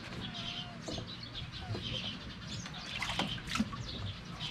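Outdoor ambience with small birds chirping repeatedly in the background, plus a few light clicks.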